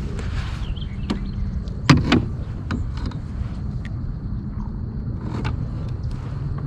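Steady low rumble with a few sharp knocks, the loudest about two seconds in.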